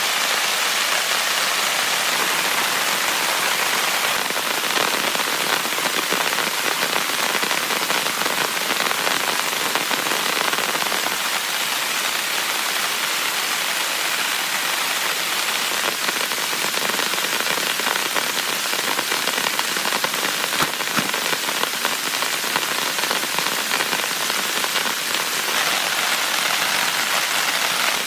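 Heavy rain falling on a tent, a dense steady patter of countless drops with no letup.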